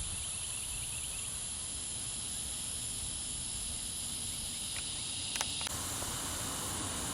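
Outdoor insect chorus, a steady high-pitched buzz with a faint low rumble underneath and a brief click about five and a half seconds in.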